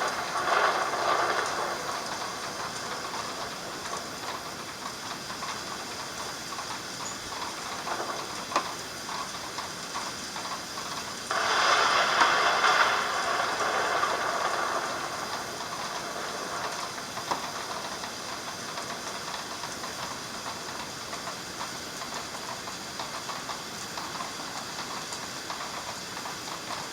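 Heavy thunderstorm rain falling in a steady hiss, surging louder for a couple of seconds at the start and again for about three seconds around the middle.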